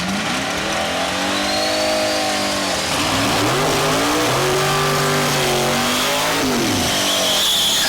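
Twin-turbo Pontiac G8's Dart 427 V8 accelerating hard down the drag strip, the engine pitch climbing and then dropping sharply at gear changes, twice.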